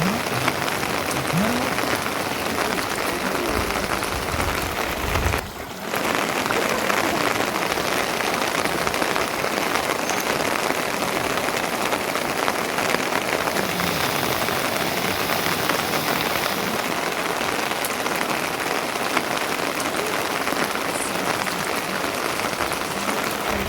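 Steady rain falling, a dense even hiss, briefly dropping away about five seconds in.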